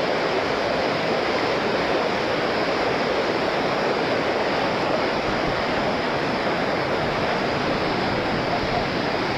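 Waterfall water pouring and splashing, a steady even rush with no breaks.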